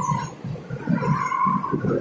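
Train running through a tunnel, heard from the open coach doorway: a continuous rattling rumble of wheels on the rails, with a high steady tone that fades out shortly after the start and comes back about a second in.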